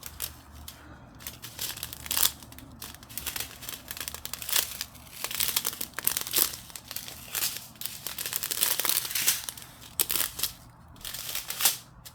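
Small plastic bags of round resin diamond-painting drills crinkling as they are handled and looked through one after another.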